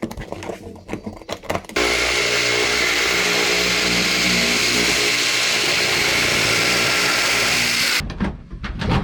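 A power tool's motor starts suddenly, runs steadily and loudly for about six seconds, then cuts off. Scattered knocks and clicks come before and after it.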